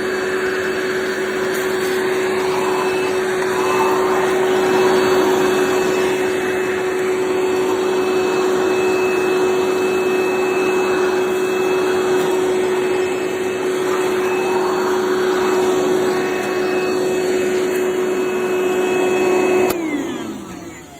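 DeWalt 20V MAX DCV581H wet/dry shop vacuum running steadily with a constant whine. It is switched off near the end, and its pitch falls as the motor spins down.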